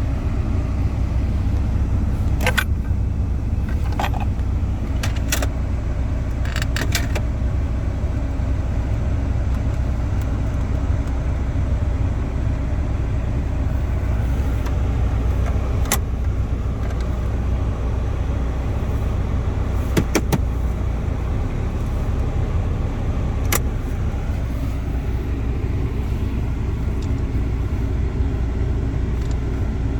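Steady low rumble of a car heard from inside the cabin, with sharp clicks scattered through the first two-thirds, some single and some in quick pairs or triples: the clicks of HVAC control knobs and buttons being worked.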